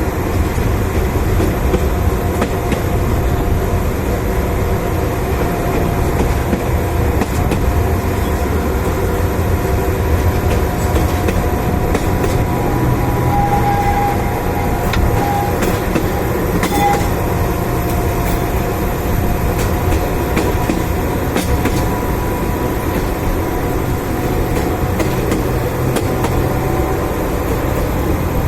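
Narrow-gauge diesel train running: a steady rumble of wheels on track, with occasional sharp clicks and a few brief high tones about halfway through.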